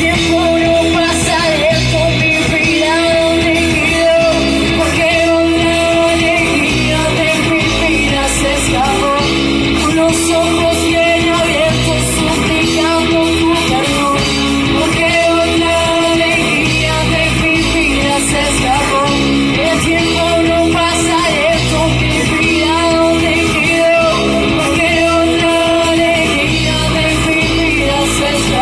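Rock music with a male-or-female sung vocal over guitar, bass and drums, playing with a steady beat.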